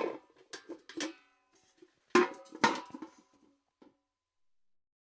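Steel bucket clanking: a few light knocks in the first second, two loud clanks a little after two seconds, and a faint last one near four seconds, each ringing briefly.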